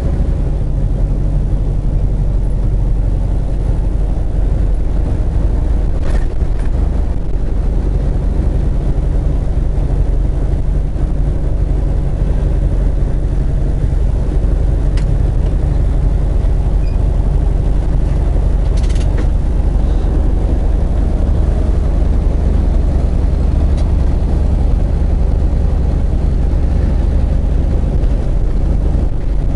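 Semi truck's diesel engine running steadily, a deep low drone heard from inside the cab while driving.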